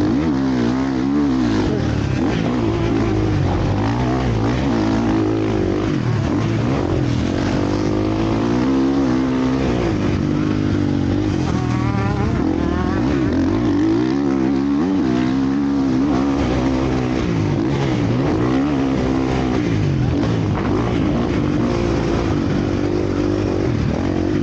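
Several motocross bikes racing, their engines revving up and down and overlapping, with no let-up.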